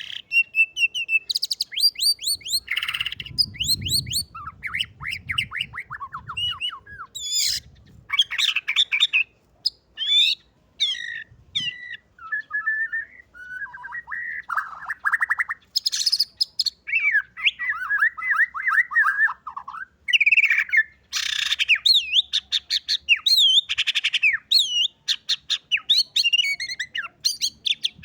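White-rumped shama (murai batu) singing a long, varied song of rapid trills, sweeping whistles and chattering phrases, with short pauses between them. Its repertoire includes learned canary song.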